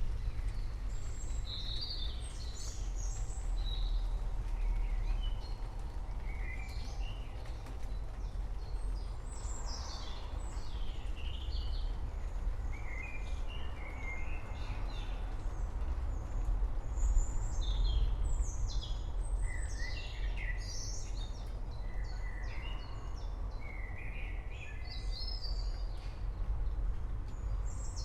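Forest birds chirping and singing, with many short chirps and trills overlapping throughout, over a steady low rumble.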